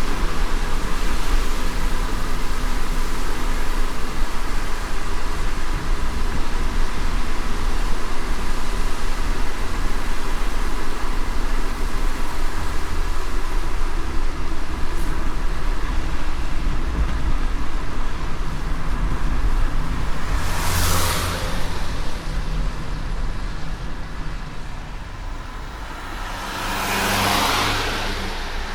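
Moving car road noise: a steady low rumble with tyre hiss. Two brief louder whooshes of hiss come near the end.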